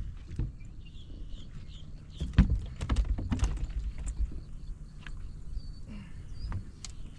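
Knocks and clatter on a small fishing boat, loudest a little past two seconds in, over a steady low rumble, with short bird chirps.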